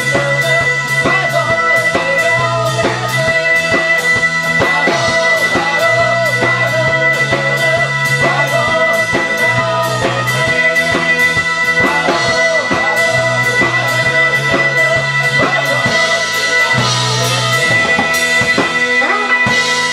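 Live band playing an instrumental fusion-style piece: drum kit keeping a steady beat under bass guitar and guitar.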